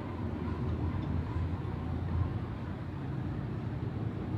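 Outdoor city ambience dominated by the low rumble of a passing motor vehicle, swelling slightly about two seconds in.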